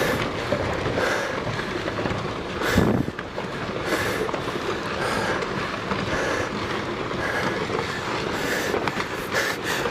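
Rockfall on a volcano slope: a steady rumble of tumbling rocks with clattering, and a louder crash about three seconds in.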